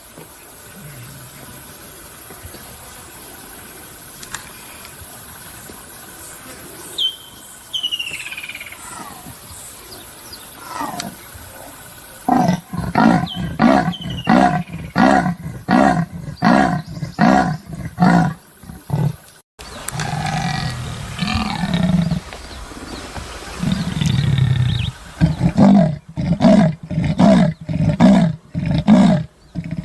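Leopard giving its sawing call, a series of rasping grunts at roughly one and a half a second. It starts about twelve seconds in and stops abruptly. A lower rumbling stretch follows, then a second run of grunts near the end.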